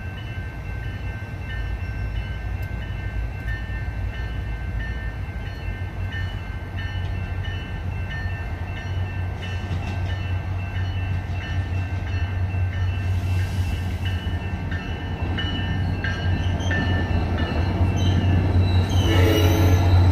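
Grade-crossing warning bell ringing steadily while a SunRail commuter train approaches, the hum of its diesel locomotive growing louder. A short horn blast sounds near the end as the train reaches the crossing.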